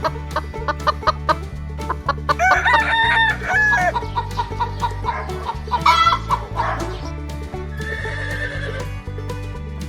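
Chicken sounds: a rooster crowing about two and a half seconds in, followed by shorter clucking calls, over background music with a steady beat.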